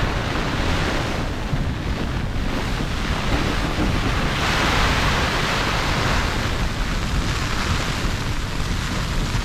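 Storm wind gusting against a tent, a steady rushing with low rumble from wind on the microphone, swelling into a stronger gust about halfway through.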